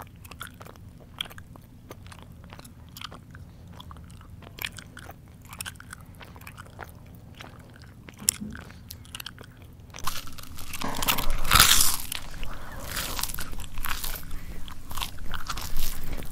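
A person chewing food: quiet mouth clicks and smacks, then from about ten seconds in louder, denser crunchy chewing, loudest a second or two later.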